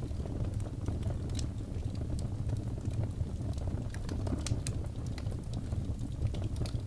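Fireplace fire crackling: irregular sharp snaps and pops over a low, steady rumble of the flames.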